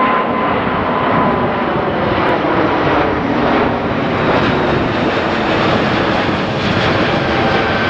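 Emirates Airbus A380 jet engines running loudly and steadily, a dense, unbroken roar.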